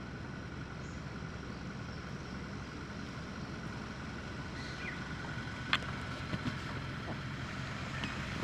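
Low, steady rumble of a vehicle running, with a faint steady high whine and a single sharp click a little under six seconds in.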